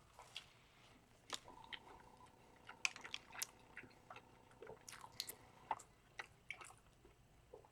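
Faint chewing with scattered small wet mouth clicks and smacks while eating a sausage egg biscuit.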